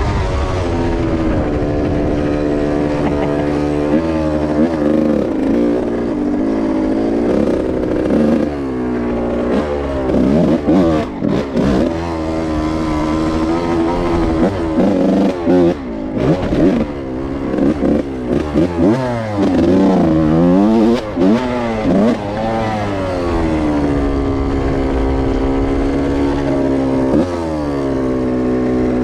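Yamaha YZ125 two-stroke single-cylinder engine being ridden off-road: its pitch holds steady for stretches and in the middle rises and falls quickly with repeated throttle blips and brief chops, then settles into a steadier run near the end.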